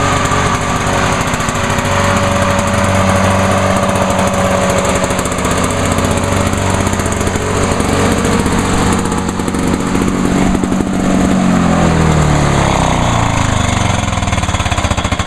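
Lawn-Boy 8461 commercial mower's two-stroke engine running steadily while it burns off Seafoam after a hot soak. Its speed sags about two-thirds of the way through, then it keeps running.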